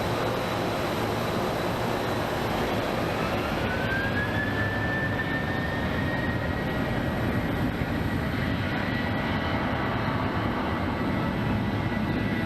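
Boeing 737 jet airliner's engines spooling up to takeoff thrust: a steady roar with a whine that rises in pitch a few seconds in and then holds steady.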